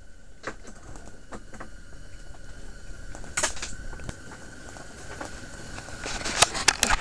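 Handling noises, scattered clicks, knocks and rustles, as a freshly caught fish and the fishing tackle are handled, over a faint steady hum. A quick run of sharper clicks near the end is the loudest part.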